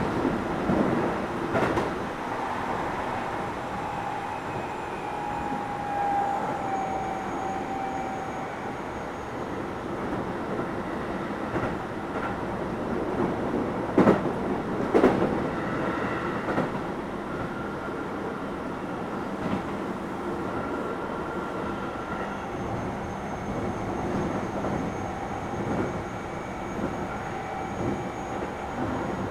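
Keio 7000 series electric train running, heard from inside the car: a steady rumble of wheels on rail. A few sharp clacks come over rail joints, the loudest a cluster about halfway through, and a faint thin whine comes and goes.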